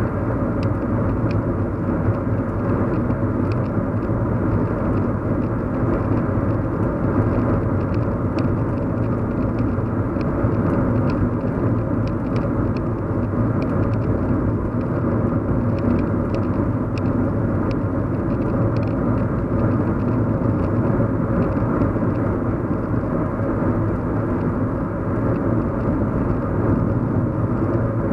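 Steady hum and rumble of a car driving along, heard from inside the cabin, with road and tyre noise and faint light ticks over it.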